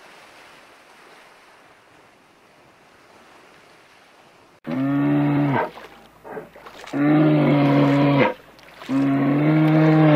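A faint wash of sea noise, then from about halfway three loud, low animal calls. Each call lasts about a second, holds one pitch and drops away at the end.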